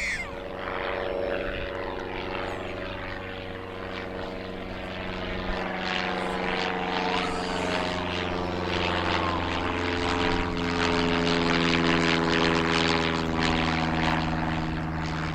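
Aircraft engine running as the plane goes by, a steady hum of several tones over rushing noise. The tones slide down in pitch partway through, and the sound grows louder toward the end.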